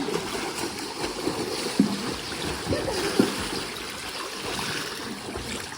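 Water splashing and trickling, with faint voices in the background.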